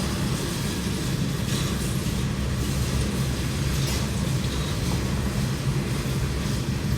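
Coal train passing close by: a steady rumble of freight cars rolling over the rails.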